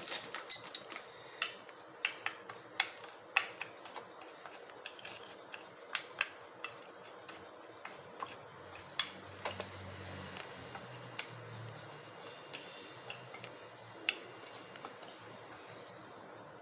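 A spoon clicking and scraping against a dish while dry semolina is stirred together with chili powder. Sharp, irregular clicks come about one or two a second and thin out toward the end.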